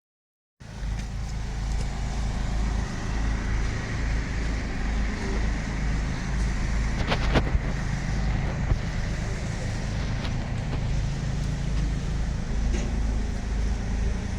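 Chevrolet Aveo T300's engine running in a steady low rumble, the car being driven under its own power. There is one sharp click about halfway through.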